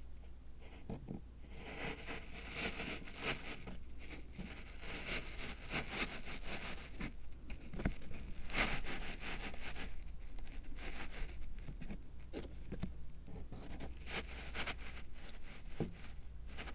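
Irregular scraping and rustling of close-up handwork on a miniature zen rock garden diorama, with scattered light clicks and taps, over a low steady hum.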